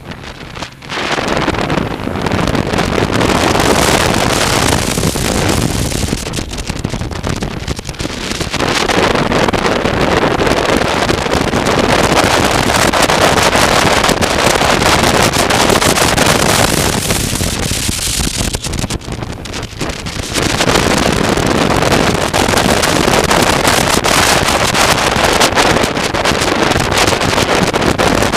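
Wind rushing over the microphone of a moving motorcycle, with engine and road noise beneath it. The rush eases twice, briefly, then builds again.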